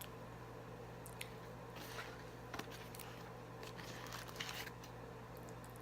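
Faint chewing of food close to the microphone, with a few short soft crunches and wet squishing mouth sounds.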